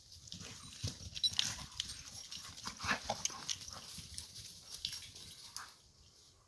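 A dog close to the microphone, making a run of short, irregular noises with scuffling and rustling, for about six seconds.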